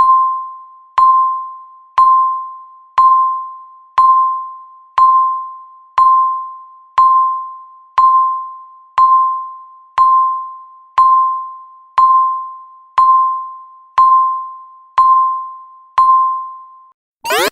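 A countdown timer's tick: a short pitched beep once a second, each ringing briefly and fading, counting down the last seconds to zero. Just before the end a loud alarm cuts in with rapid rising sweeps.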